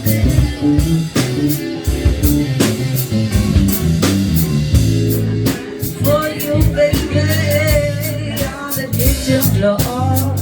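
A band jamming live on a blues-rock groove: guitar and drum kit with a repeating low bass line, and a wavering melody line that comes in about six seconds in.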